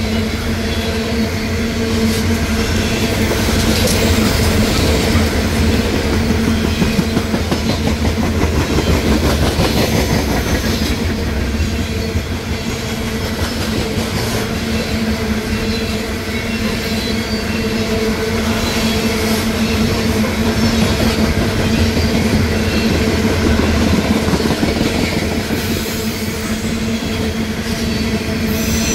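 Loaded coal hopper cars of a freight train rolling past at close range: a continuous rumble and clatter of steel wheels on the rails, with a steady low hum running under it.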